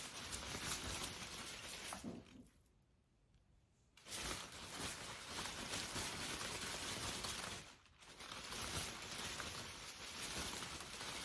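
Steady rain falling, an even hiss of patter. It cuts out to near silence about two seconds in, returns sharply about two seconds later, and dips again briefly near the eight-second mark.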